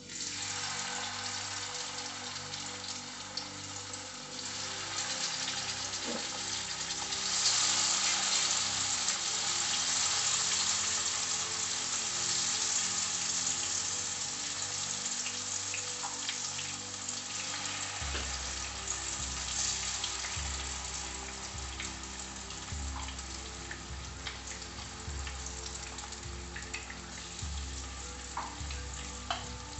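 Marinated chicken tikka pieces sizzling in hot oil in a frying pan as they are laid in one by one, the sizzle steady and loudest about a third of the way through. A low musical beat sits under it in the second half.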